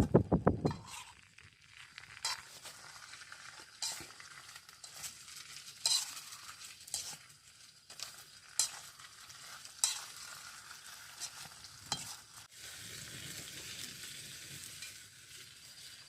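Food sizzling in hot oil in a pan while it is stirred, with a sharp scrape or tap of the utensil on the pan every second or two; the sizzle grows steadier about twelve seconds in.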